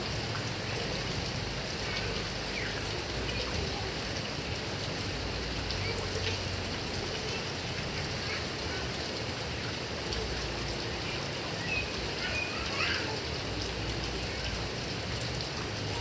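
Heavy rain falling steadily on grass and trees as an even hiss, with a few faint high chirps about three-quarters of the way through.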